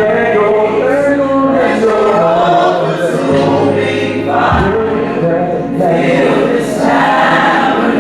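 Church choir singing a gospel worship song, voices holding long notes over a sustained low accompaniment.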